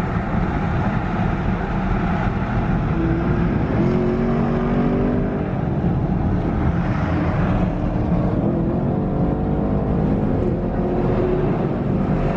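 Cars driving at speed, with steady engine drone and road noise. An engine tone rises slightly in pitch about three seconds in and again around eight seconds in.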